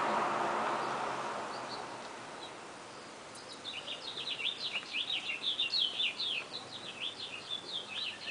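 A soft rustling hiss fades away over the first two seconds. Then, from about three seconds in, a songbird sings a fast run of short, falling chirps.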